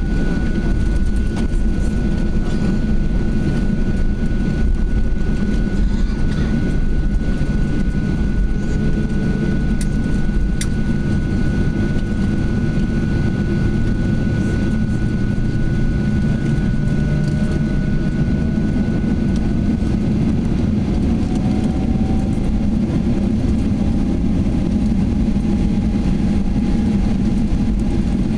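Inside the cabin of a Boeing 737-800 taxiing after landing: a steady low rumble of its CFM56 engines at idle, with a faint whine that rises slowly in pitch partway through.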